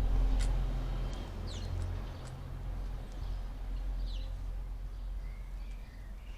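Outdoor garden ambience: a few short, high, falling bird chirps spread a second or two apart, with a couple of sharp ticks, over a steady low rumble.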